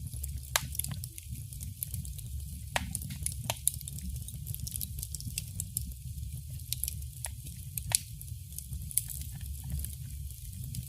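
Wood fire burning in a fireplace: irregular sharp crackles and a few louder pops over a steady low rumble of the flames.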